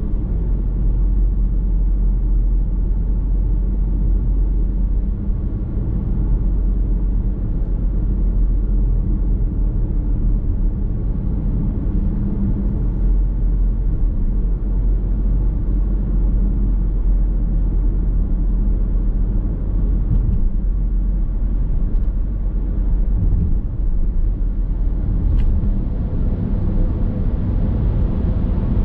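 Steady low rumble of a car being driven: tyre and road noise with the engine, heard from inside the car.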